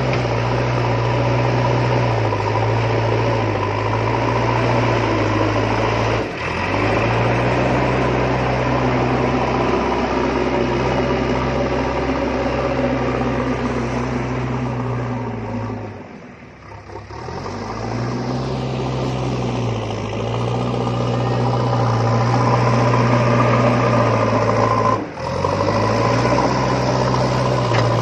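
Tractor engine running under load, its pitch stepping up and down as the revs change. It briefly dips out twice and fades almost away for about a second two-thirds of the way through.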